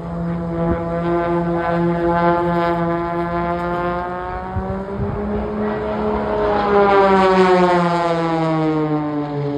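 A display aircraft flying past, its engine and propeller drone held steady and then sliding down in pitch as it passes, loudest a little past the middle.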